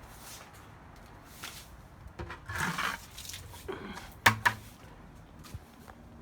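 A bucket being fetched and handled: a scraping rustle, then two sharp knocks about four seconds in.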